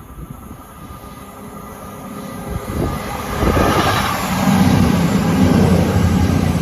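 A Class 220 Voyager diesel multiple unit passing through the station. Its engine and wheel noise builds from about two seconds in to a loud, steady low drone in the second half.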